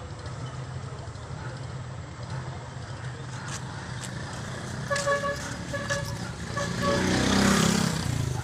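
A vehicle horn giving a quick run of short toots about five seconds in, then a vehicle passing close by, its noise swelling to the loudest point and falling in pitch near the end, over a steady low engine rumble.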